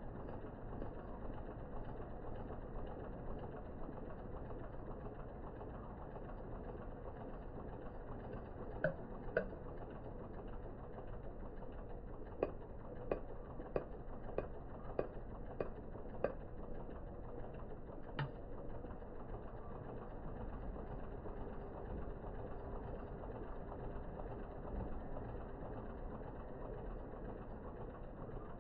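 Car engine idling steadily, with sharp metallic taps: a pair about a third of the way in, then about seven evenly spaced taps, one every half second or so, near the middle.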